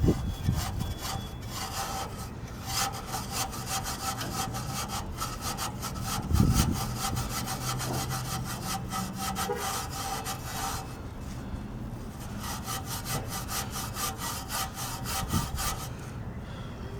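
Rapid back-and-forth scrubbing strokes against a motorcycle's metal frame, in two long runs with a short break about eleven seconds in. A low thump comes about six seconds in.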